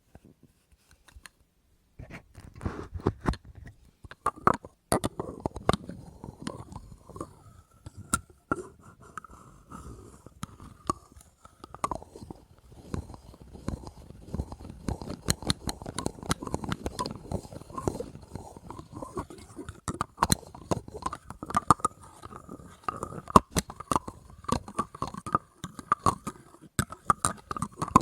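Rapid ASMR tapping and scraping on hard objects and their lids, dense and irregular, with a faint ringing note from the object under the taps. It starts about two seconds in, after a short silence.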